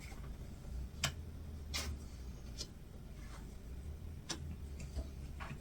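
Tarot cards and dice being handled and set down on a table, giving about five light, irregular clicks and taps over a low steady hum.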